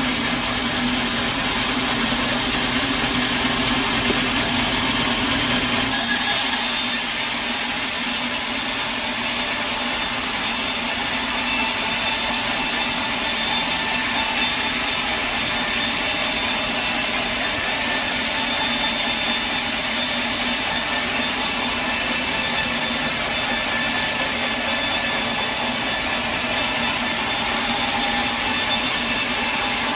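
Sawmill running with its saw cutting steadily through a log. The engine hum leads for the first few seconds, then about six seconds in a high-pitched whine and ringing from the blade in the wood sets in and holds steady.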